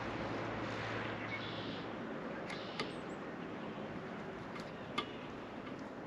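Steady outdoor background hiss with a low hum that fades out about two seconds in, and four sharp clicks or taps in the second half.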